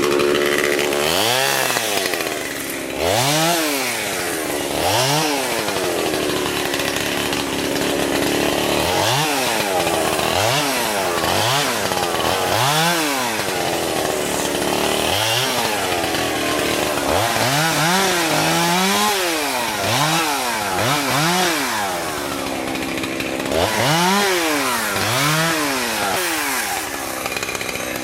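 Chainsaw revved up and down again and again, each rev climbing and falling in pitch, with a few short stretches of steady running between, as limbs are cut off a felled tree.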